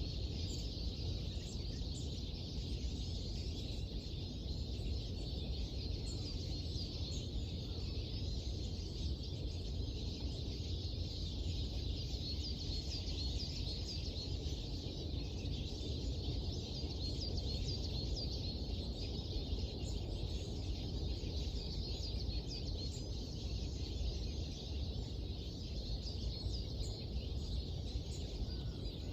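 Small birds chirping and twittering at dawn, many short high calls overlapping continuously, over a steady low background rumble.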